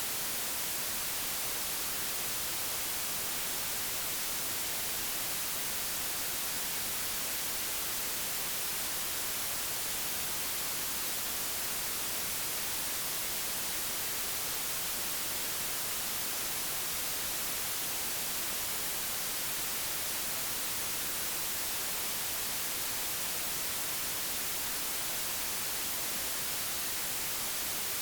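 Digitally generated white noise: a steady, even hiss with no change in level.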